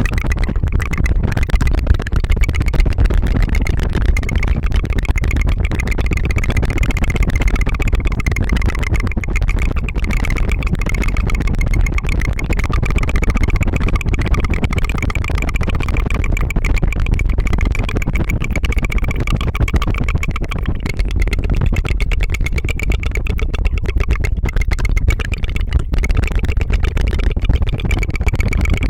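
Rapid tongue fluttering: a continuous rolled trill of the tongue, buzzing steadily without a break like a small motor.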